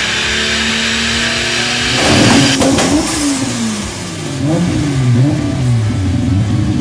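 Toyota Supra's 2JZ straight-six engine revving on a dyno. A steady drone gives way about two seconds in to repeated blips of the throttle, the pitch swinging up and down, with a sharp crack soon after the revving starts.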